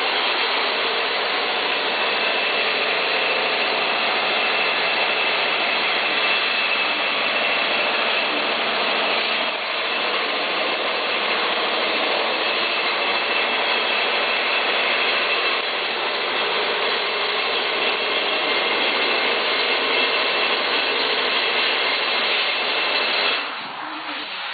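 Porsche 911 3.2 Carrera air-cooled flat-six engine, mounted with its gearbox on a pallet, running at a steady speed with no revving, then shutting off near the end.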